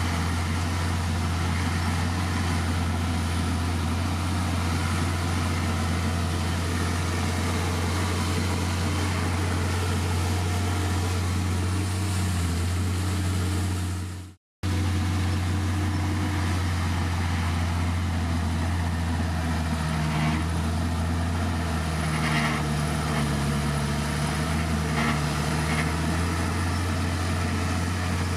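Diesel engine of a Komatsu D51PX bulldozer running steadily, cutting out for an instant about halfway through, then running on. Its pitch wavers slightly in the later part, with a few faint clanks.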